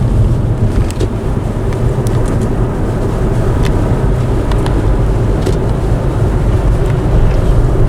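Strong gusting wind buffeting the microphone in a blizzard: a loud, steady low rumble with rushing noise above it and a few faint clicks.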